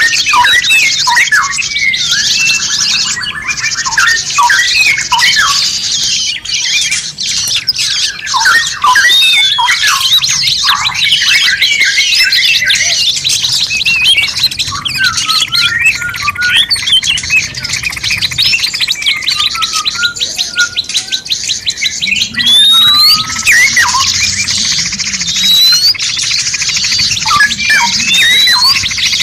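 A dense mix of songbird chirps, whistles and squawks, several birds calling over one another without a break. The calls thin out in the middle and grow busier again near the end.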